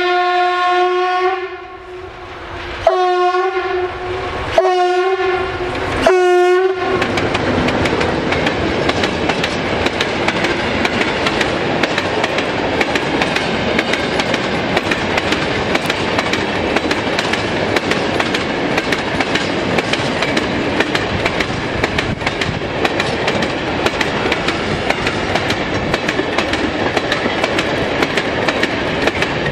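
CFR class 060-DA Sulzer diesel-electric locomotive sounding its air horn: one longer blast, then three short blasts about a second and a half apart. The locomotive then passes, and a long train of tank wagons rolls by with a steady clickety-clack of wheels over the rail joints.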